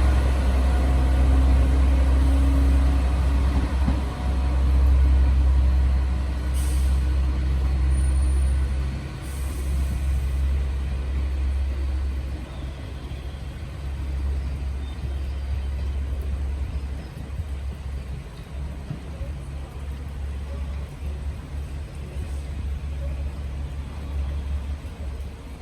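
A train at a station platform: a steady low rumble that eases off after about nine seconds, with two short hisses of air from the brakes about 7 and 9.5 seconds in.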